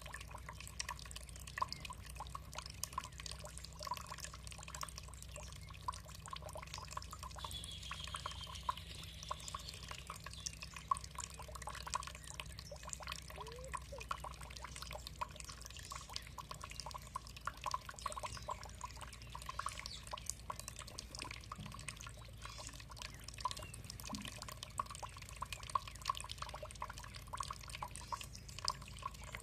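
Water dripping and trickling in a steady patter of many small drops, with a faint high bird call falling in pitch about eight seconds in.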